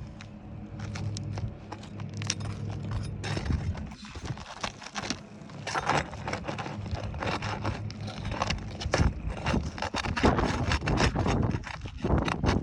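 Irregular clicking, crackling and scraping of work on asphalt roof shingles, as shingles are pried loose and unsealed from the course beneath. A low steady hum runs under the first few seconds.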